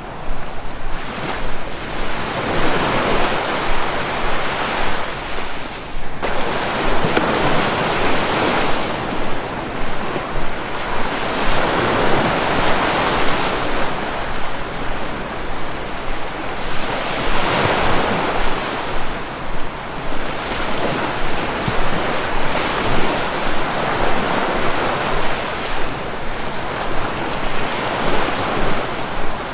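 Sea waves breaking, rising and falling in surges every few seconds.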